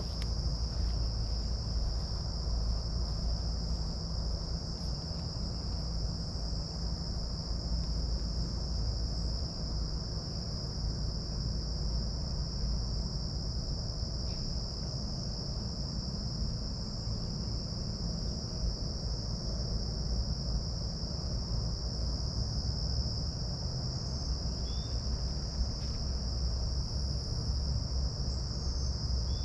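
Steady, unbroken high-pitched drone of an insect chorus, with a low rumble underneath and a few short bird chirps near the end.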